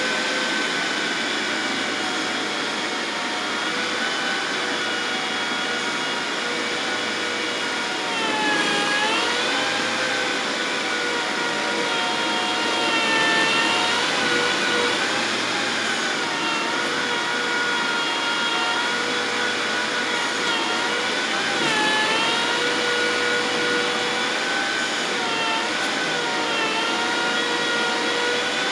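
Engine of heavy landscaping equipment running hard with a steady high whine. Its pitch dips briefly three times, about a third of the way in and twice near the end, as it takes load and recovers.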